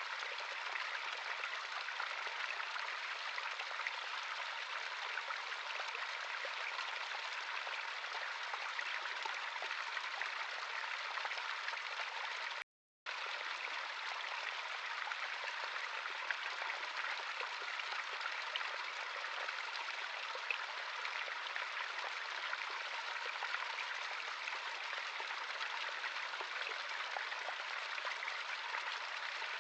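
A natural stream running: a steady, even wash of flowing water with no low rumble. It drops out to silence for a split second about halfway through.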